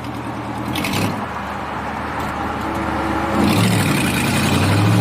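Car engine and exhaust running, getting louder about three and a half seconds in as the car accelerates, with a brief knock about a second in.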